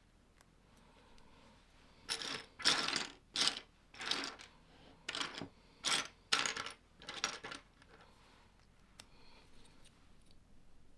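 Plastic Lego pieces being handled, a run of eight or nine short clattering clicks in the middle of the stretch, then a few faint clicks.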